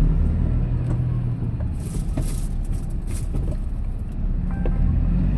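Steady low rumble of a vehicle's engine and tyres on the road, heard from inside the cab while driving.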